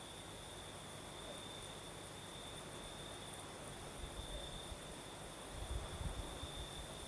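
Crickets trilling steadily at one high pitch, with a higher insect hiss that grows louder about five seconds in. Low gusts of night breeze rumble on the microphone about four seconds in and again near the end.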